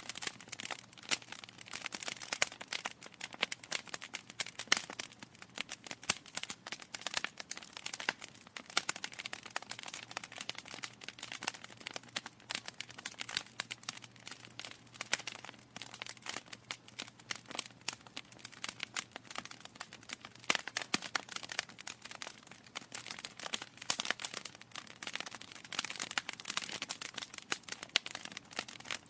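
Wood fire crackling in a fireplace: dense, irregular pops and snaps of burning logs, steady throughout with a few sharper louder pops.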